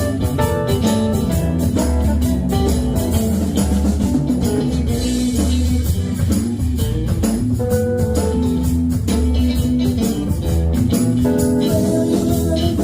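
Live band playing an instrumental passage: guitar over bass and drum kit, with a steady beat and no singing.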